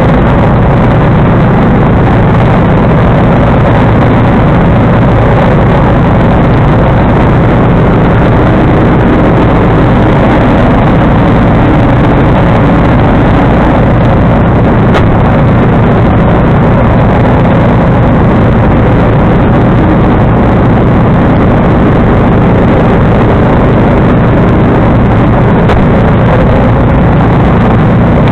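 John Deere 445 garden tractor's engine running steadily at a constant speed, loud and unchanging.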